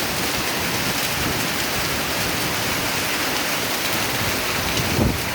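Heavy storm rain falling steadily, a dense even hiss. About five seconds in there is a brief low thump.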